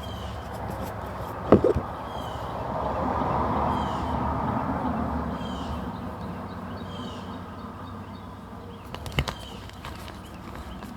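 A bird repeating a short, high, falling call about every second and a half, over a rustling hiss that swells and fades in the first half. Two sharp snaps sound, one about a second and a half in and one near the end.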